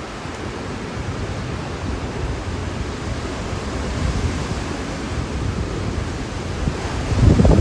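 Hurricane wind blowing hard and steadily, gusting against the microphone with a low rumble, with a stronger gust near the end.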